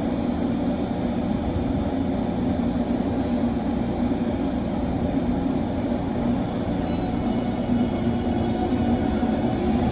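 JR Kyushu 813 series electric multiple unit running on the rails: a steady low rumble that keeps an even level throughout.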